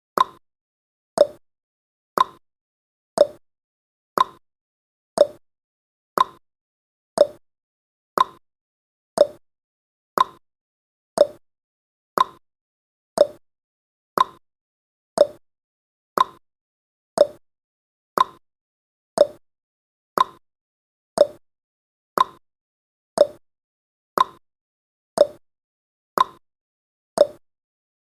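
Timer ticking sound effect: short, sharp clock-like ticks, one each second, alternating slightly higher and lower in pitch like a tick-tock, marking the seconds of the countdown.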